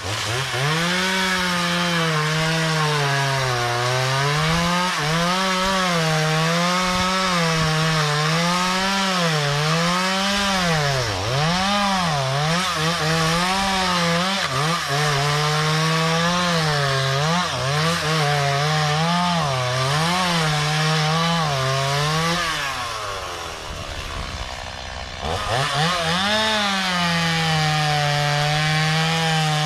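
Two-stroke chainsaw cutting through a tree, its engine pitch rising and falling over and over as the chain works under load. About three quarters of the way through the engine drops back briefly, then revs up again to keep cutting.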